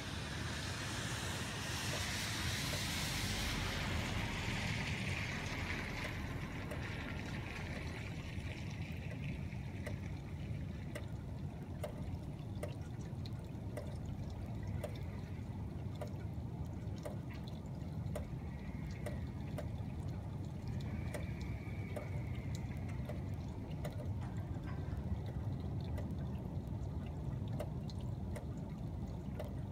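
Rain falling steadily, with many small ticking drips and trickling water. A louder hiss at the start fades out over the first few seconds.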